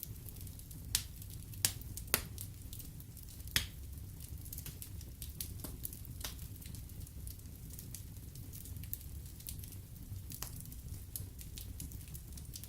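Wood fire in a fireplace crackling over a low steady rumble of flames, with four sharp pops in the first four seconds and lighter ticks scattered after.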